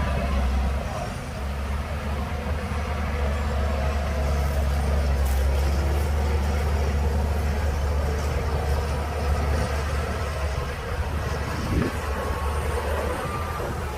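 Shantui DH17C2 bulldozer's diesel engine running steadily as a deep, continuous rumble, with a few faint clicks about five to six seconds in.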